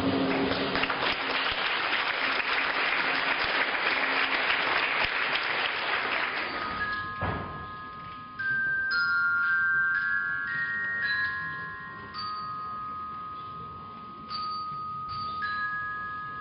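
Audience applause fades out about seven seconds in. Orchestral bells then strike single ringing notes one after another, each left to sound on and overlap the next, opening a wind band's performance of a march.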